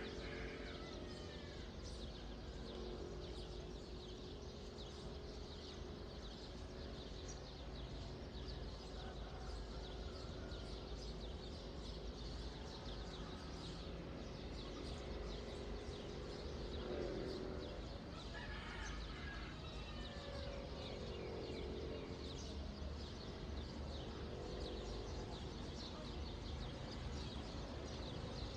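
Outdoor dawn ambience: many small birds chirping throughout over a low steady rumble, with a few longer, lower pitched animal calls lasting a few seconds each, near the start and again about two-thirds of the way in.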